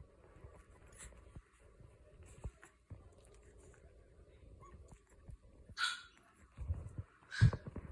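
Boston Terrier puppies over quiet shuffling, with a short high yip about six seconds in and a louder one near the end.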